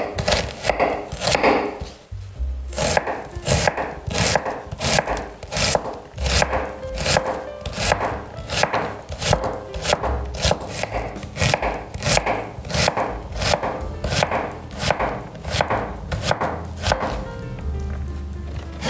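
Knife chopping vegetables on a wooden cutting board in an even rhythm of about two cuts a second.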